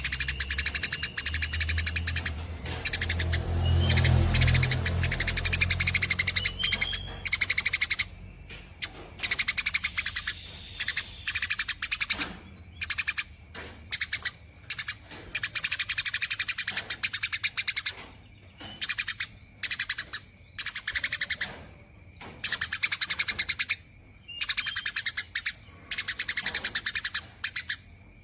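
Eurasian tree sparrow singing its long, very rapid chattering 'nyerecet' trill, in phrases of one to two seconds with short breaks between them.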